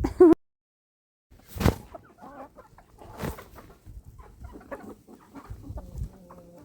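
Domestic chickens clucking softly, with a loud squawk right at the start, then about a second of dead silence. Two sharp noisy sounds come about a second and a half apart.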